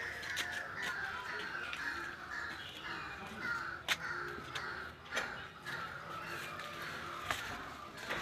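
Birds calling over and over in a steady chorus, with a few sharp clicks, the loudest about four seconds in.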